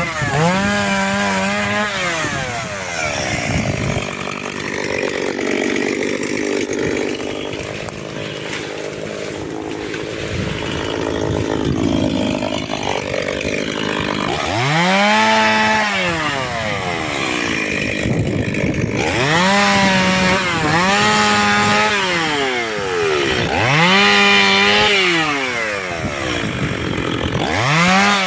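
Chainsaw cutting firewood, its engine revving up and dropping back again and again. Through a stretch in the middle it runs lower and steadier.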